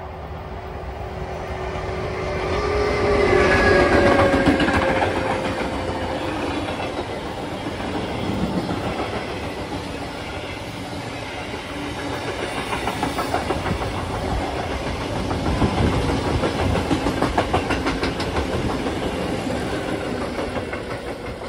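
Electric freight locomotive passing close with a whining tone from its traction equipment, loudest about four seconds in, followed by a long train of loaded log wagons and open goods wagons rumbling by with a rhythmic clatter of wheels on the rails.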